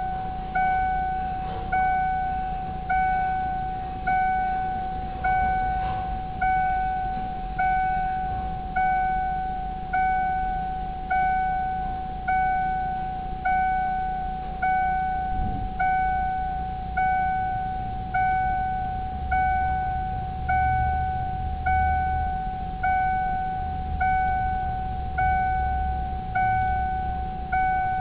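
Ford Mustang dashboard warning chime ringing on and on with the ignition key on and the engine off. It is a single bell-like ding that strikes and fades about every 1.3 seconds. A faint low rumble sits underneath in the second half.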